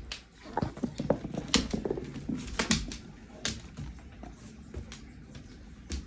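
A large dog, a Presa Canario, making short low vocal sounds close by, with sharp clicks and knocks from its movement. The sounds are busiest in the first three seconds.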